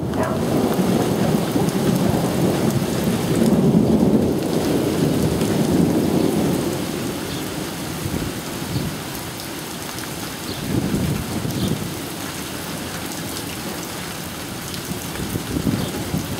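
Thunderstorm: heavy rain falling steadily, with a low rumble of thunder loudest over the first several seconds that swells again briefly about eleven and fifteen seconds in.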